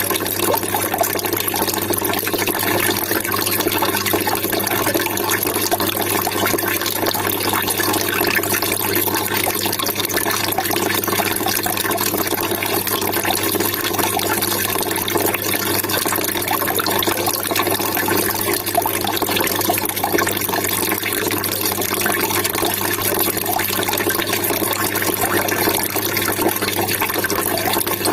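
Water trickling and splashing steadily, with no pauses, over a steady low hum.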